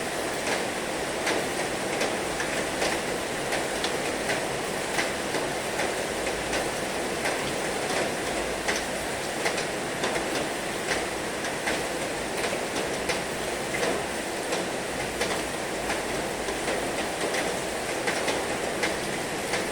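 Heavy rain falling steadily, a dense even hiss with many irregular sharp drop ticks striking a hard surface.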